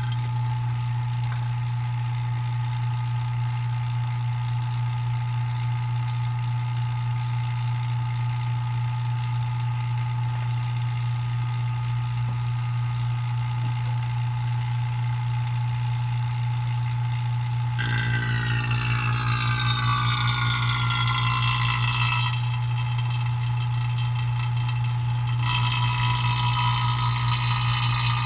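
ZENY electric rotary-vane vacuum pump switched on and running steadily with a loud low hum, pulling a vacuum on a car's A/C system from zero. About 18 s in, a higher whine sliding down in pitch joins the pump sound, drops out a few seconds later and comes back near the end.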